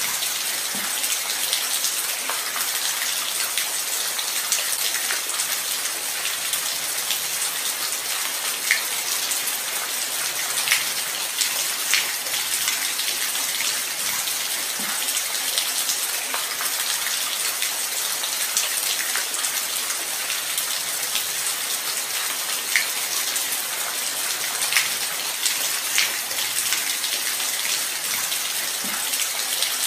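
Steady light rain falling, a constant hiss with the sharper taps of single drops landing here and there.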